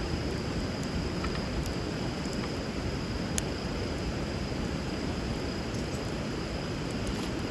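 Steady rush of river water with a few sharp pops from a wood fire burning over it, one about three and a half seconds in.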